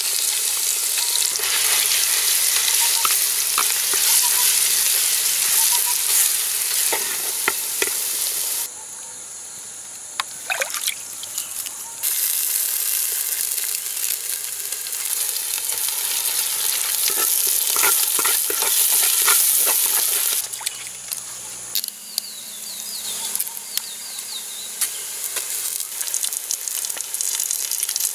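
Chopped aromatics frying in hot oil in a clay pot: a loud, steady sizzle with occasional clicks. The sizzle drops away twice for a few seconds.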